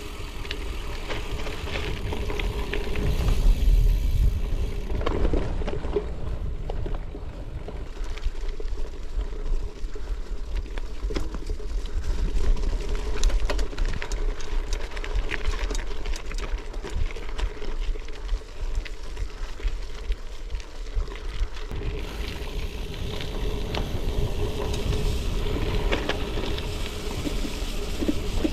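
Gravel bike being ridden on a dirt and gravel trail, heard through a GoPro: steady tyre noise with frequent small rattles and clicks, and wind rumbling on the microphone.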